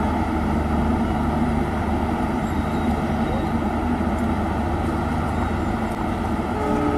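Indian Railways passenger train pulling away along the track, giving a steady rumble of wheels on rails with a continuous low hum from the rear coaches.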